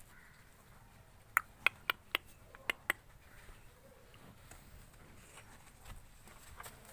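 Six short, sharp knocks in quick succession, starting about a second and a half in and spread over about a second and a half, over faint background noise.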